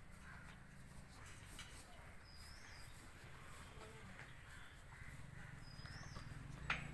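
Faint quiet ambience: a bird's short, high gliding chirp repeats about every three and a half seconds over a low steady hum, with a single sharp click near the end.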